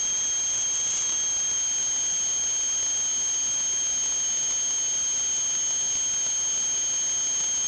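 A steady high-pitched whistling tone over a constant hiss, unchanging throughout.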